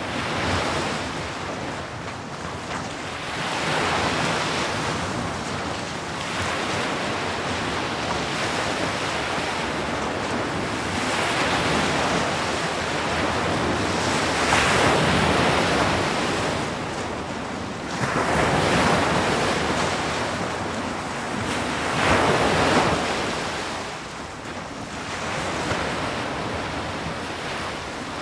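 Sea waves breaking and washing up on a shore, a continuous rushing surf that swells and eases every few seconds, with stronger surges about halfway through and near the end.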